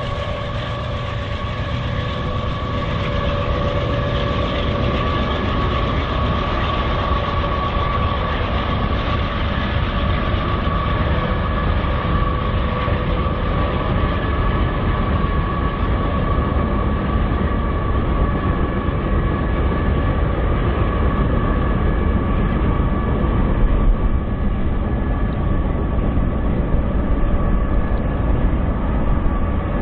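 BNSF freight train rolling past, its railcar wheels making a steady rumble on the rails, with a steady high ringing tone over it.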